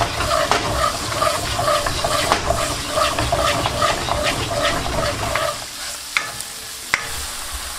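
Chopped garlic, chillies, sun-dried tomatoes and red pepper sizzling in olive oil in a non-stick wok, stirred with a plastic spatula in rhythmic strokes of about two a second. The stirring stops about five and a half seconds in, leaving the sizzle, with two sharp taps near the end.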